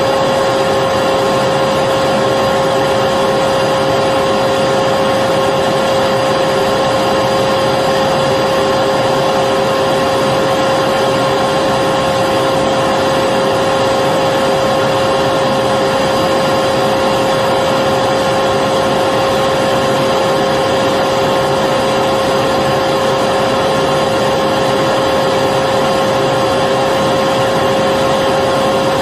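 Electric vacuum cleaner running steadily: an even motor rush with a constant hum in it and no change in speed.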